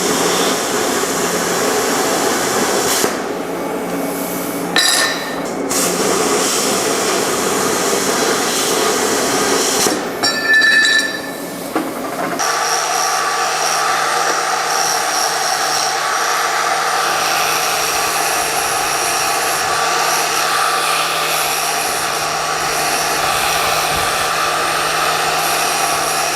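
Plasma cutter cutting 1/16-inch steel plate: a continuous hissing rush that breaks off briefly a few seconds in and again around ten seconds. From about halfway it turns steadier, with a thin high whine.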